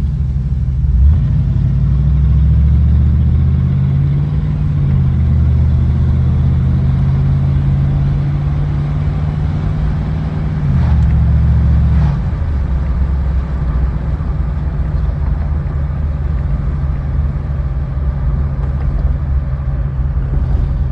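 Car engine running while cruising, with road noise, heard from inside the car. The engine note changes a couple of times as speed varies.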